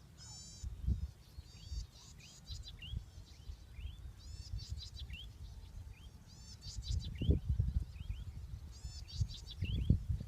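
A songbird singing the same short phrase over and over, about once every two seconds: a quick run of high falling notes, then a couple of lower rising notes. Low rumbling thumps run beneath it and are loudest about 7 and 10 seconds in.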